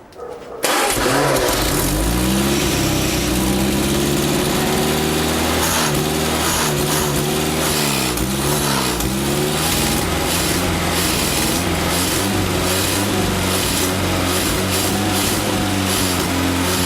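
1936 Hillman Minx's four-cylinder side-valve engine catching about half a second in and running, the revs rising and falling a few seconds in before it settles to a steady run; the owner says it just needs a little tuning up.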